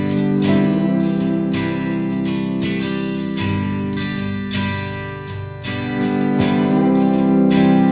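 Acoustic guitar strumming chords: the instrumental intro of a song, with a regular strumming rhythm.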